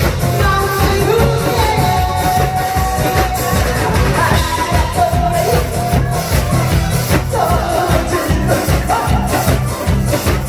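Amplified live singing of a Korean 7080-era pop song over musical accompaniment with a steady beat.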